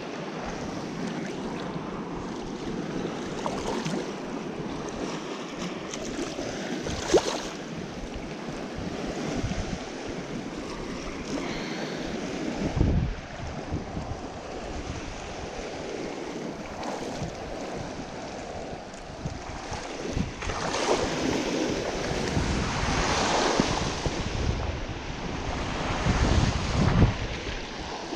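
Wind buffeting the microphone with a steady rush of open water, the rumble growing stronger about halfway through. A few sharp knocks stand out, one about a quarter of the way in, one near the middle and one near the end.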